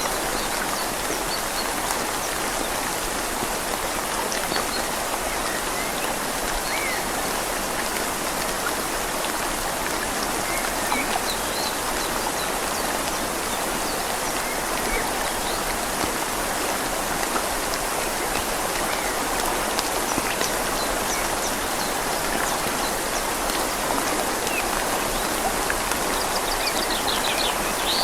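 Steady rain falling on leaves over a flowing river, an even, unbroken hiss of water.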